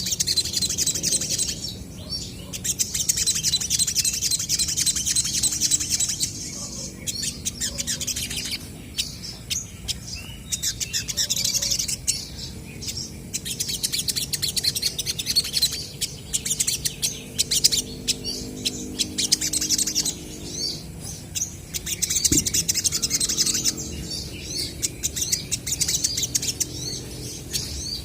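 Olive-backed sunbirds singing and calling back and forth: rapid, high-pitched twittering trills in bouts of a few seconds with brief pauses between.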